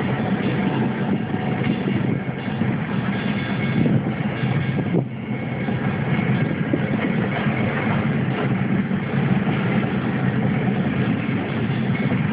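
Diesel locomotive engine of a Union Pacific distributed power unit running steadily as the freight train passes.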